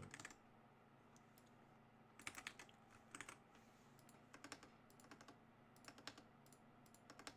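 Computer keyboard typing in short bursts of key clicks, with pauses between.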